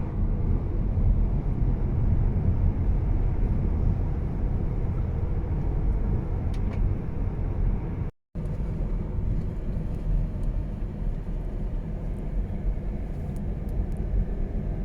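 Steady low rumble of a moving vehicle, with a brief drop to silence about eight seconds in.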